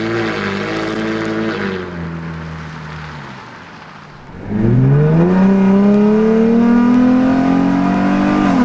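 Dodge Charger 3.6L V6 running through a Solo Performance aftermarket exhaust. The engine note fades away over the first few seconds, then about halfway through a loud acceleration comes in, its pitch climbing steadily for about four seconds before dropping sharply near the end at a gear change.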